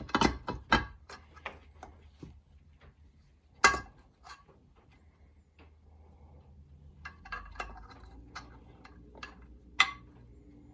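Scattered clicks and clinks of metal engine parts and tools being handled while a stator is fitted, with two sharper knocks, one about a third of the way in and one near the end.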